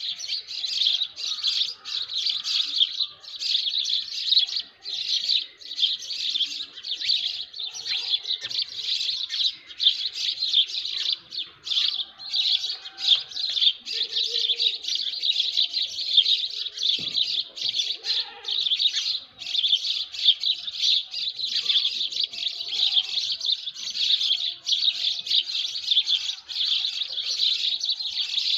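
Dawn chorus of many small birds chirping densely and continuously, a high-pitched chatter with no letup, with a few fainter, lower calls now and then.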